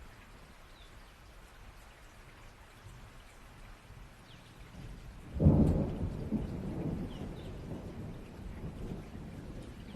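Steady rain with a thunderclap a little past halfway, a sudden low crack that rolls on into a rumble and slowly dies away.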